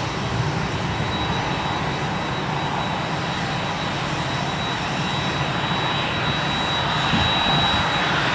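Jet engines of an Airbus A320 running at taxi power: a steady rushing noise with a thin, high whine, growing a little louder near the end.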